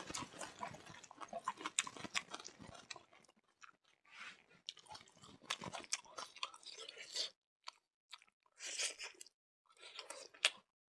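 Close-up chewing of a mouthful of rice and smoked pork with axone, with wet clicks and crunching. The chewing is busy for the first few seconds, then comes in short bouts with brief pauses between them.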